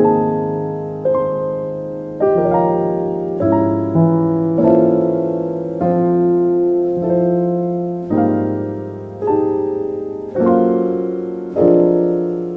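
Slow, gentle piano music: soft chords struck about once a second, each left to ring and die away.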